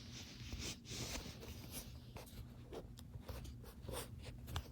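Faint scratching, rubbing and small clicks of hands working the fire-starter rod out of a plastic and rubber knife sharpener's housing.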